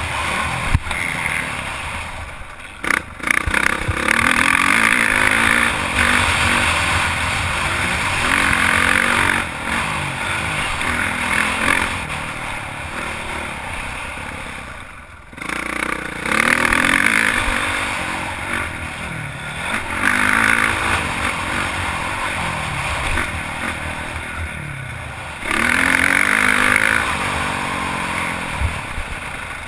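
Honda CRF450 motocross bike's single-cylinder four-stroke engine revving up and down hard as it is ridden around a track. The throttle shuts off briefly about 3 seconds in and again about halfway through.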